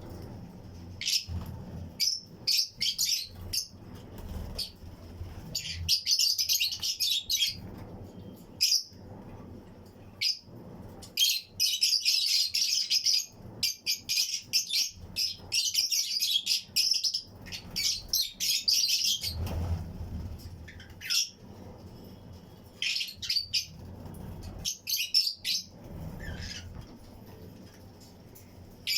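A colony of Fischer's and lutino lovebirds chirping: clusters of rapid, shrill chirps in bursts, with short pauses between them.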